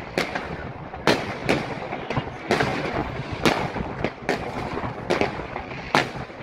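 Fireworks bursting overhead: a volley of sharp bangs at irregular intervals, several a second, with a continuous crackling noise between them.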